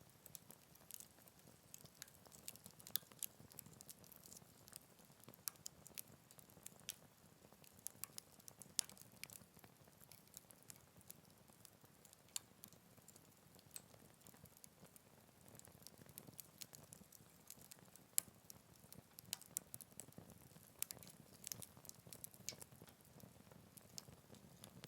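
Wood campfire crackling: irregular sharp pops and snaps, sometimes several a second, over a faint low flame rumble, with the loudest pop about 18 seconds in.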